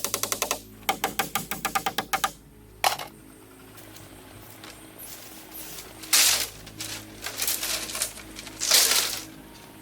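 Rapid series of sharp knocks, about eight a second, in two runs over the first two seconds, then a single knock. Two louder rough, scraping or rustling bursts follow later, over a faint steady low drone.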